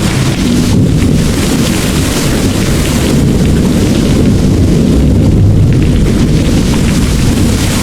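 Long, low thunder rumble over steady heavy rain; the rumble swells about four to six seconds in.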